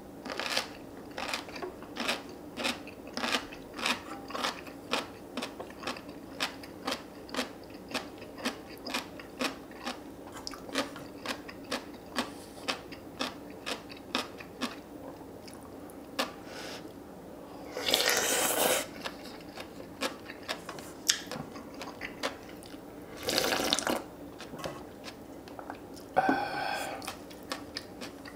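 Close-up mouth sounds of crunchy chewing on seokbakji (chunky radish kimchi), about two crunches a second. In the second half come three longer, noisier slurps of hot soup broth.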